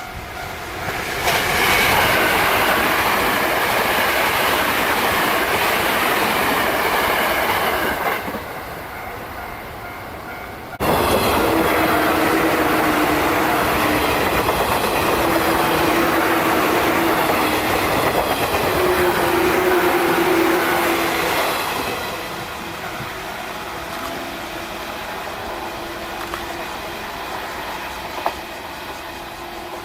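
Trains running past at speed, wheels clattering over the rail joints. The noise eases about eight seconds in. A second loud pass cuts in suddenly at about eleven seconds, with a wavering whine, and falls to a lower rumble a little past twenty seconds.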